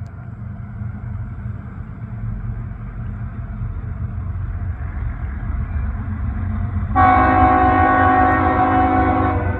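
GE diesel locomotives approaching, their engine rumble growing louder. About seven seconds in, the lead unit's Nathan K5HL five-chime air horn sounds one long blast of about two and a half seconds, then cuts off.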